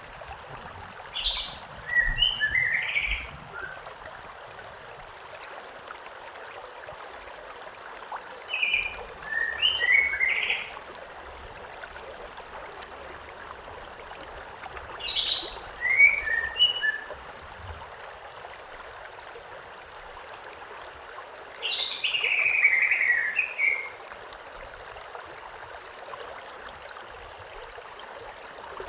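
A songbird singing a short phrase four times, about every six to seven seconds, each phrase a high note dropping to a few lower ones. Under it, the steady rush of a stream.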